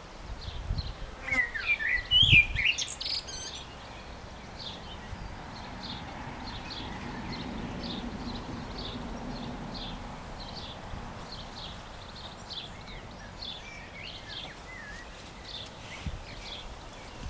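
Garden birds singing: one bird gives a loud phrase of rising and falling notes in the first few seconds, over short chirps from another that repeat steadily throughout. Two dull thumps come early on, and a faint low hum sits underneath in the middle.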